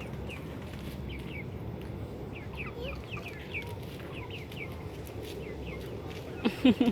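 Birds calling: faint, short, high chirps repeated throughout, then a quick run of loud clucks from a chicken near the end.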